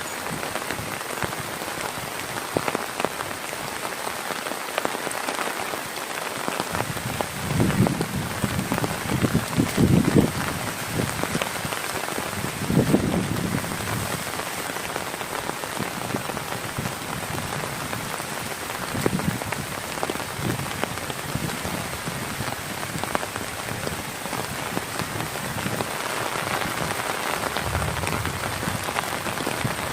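Heavy rain falling steadily, with several short low rumbling surges over it, the strongest about a third of the way in.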